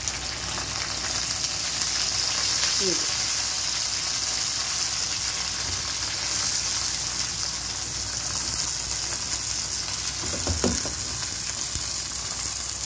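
Freshly washed radish pods sizzling steadily in hot oil in a non-stick wok, their water cooking off.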